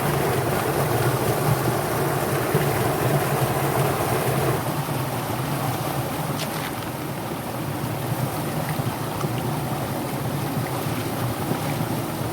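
Mountain river flowing with a steady rushing of water, and some wind on the microphone.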